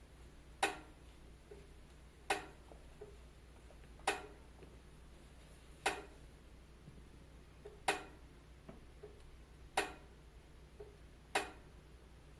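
Wood fire crackling: sharp single pops at fairly even intervals, about one every two seconds, over a faint low steady hum.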